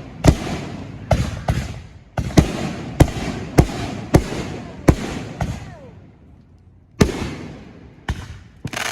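Consumer fireworks going off: about a dozen sharp bangs in irregular quick succession, each trailing off in a rumble, with a short lull before the last few.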